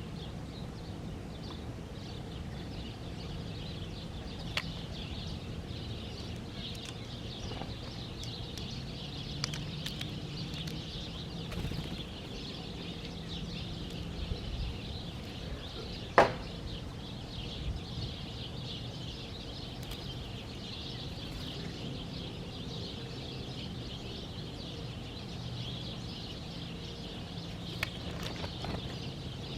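Many small birds chirping and twittering continuously over a steady low background hum, with one sharp knock about sixteen seconds in.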